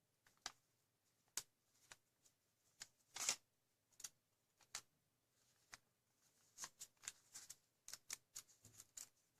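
Origami paper being handled: short, scattered rustles and crackles of folded paper, coming more often in the last few seconds.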